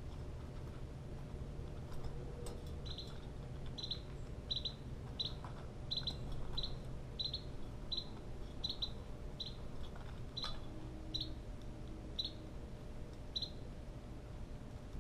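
A bird calling: a series of about fourteen short, high chip notes, roughly one every two-thirds of a second, starting about three seconds in and spacing out near the end, over a steady low background rumble.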